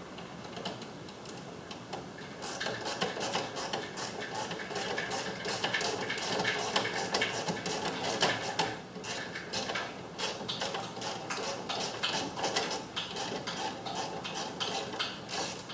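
Rapid, uneven mechanical clicking and ticking of small hand tools and hardware as screws and nuts are worked on a garage door opener. It starts about two seconds in and keeps on densely.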